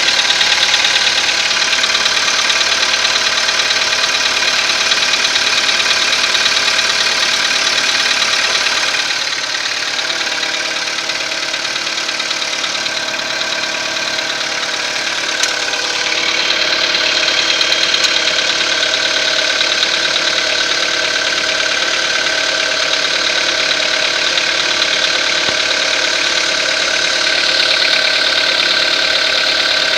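Skoda Rapid's CFNA 1.6-litre petrol four-cylinder engine running with a knock, which the owner presents as a known weakness of this engine. The sound is a little quieter for several seconds around the middle.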